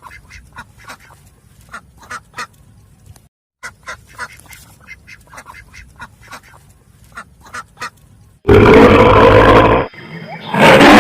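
A flock of ducks quacking in quick, short calls, several a second. About three-quarters of the way through, a much louder animal sound cuts in, breaks off briefly and starts again.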